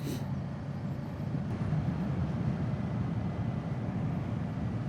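Kawasaki Z650's parallel-twin engine running steadily under way, a low even drone.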